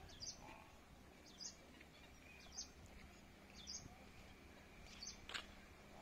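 A bird repeating a short, high chirp about once a second over faint outdoor background noise, with a single sharp click near the end.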